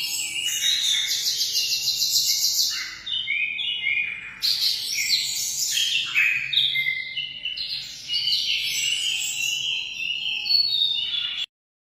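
Emprit (munia) small finches chirping and twittering, many short high calls and trills overlapping, stopping abruptly near the end.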